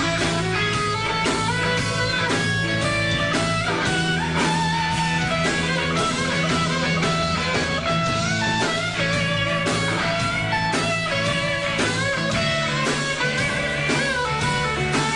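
Rock music led by electric guitar, with melodic lines and bent notes over a steady bass and drum beat.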